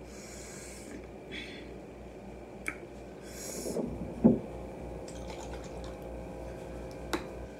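Close-up chewing of a bite of fried chicken drumette: short wet, crisp bursts of eating noise, with a couple of sharp clicks and a louder thump about four seconds in.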